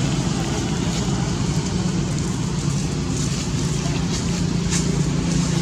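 A steady, low hum from a running engine, with several even tones held throughout.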